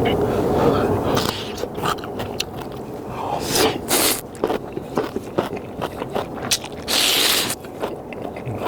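A person eating spicy instant ramyeon close to the microphone: chewing and slurping, with many short clicks and scrapes of utensils against the bowl. Two longer hissing slurps come about halfway through and near the end.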